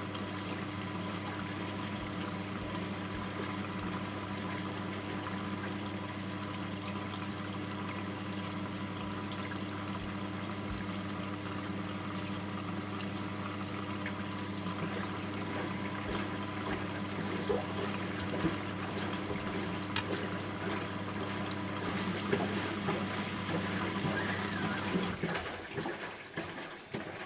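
Bosch front-loading washing machine on its synthetics 40 °C cycle: water rushing and trickling inside over a steady motor hum, likely the pump, which falters and cuts out about 25 seconds in.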